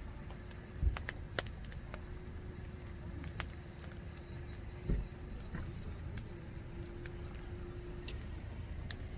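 Wood campfire crackling, with scattered sharp pops over a steady low rumble; two dull thumps stand out, one about a second in and one about halfway through.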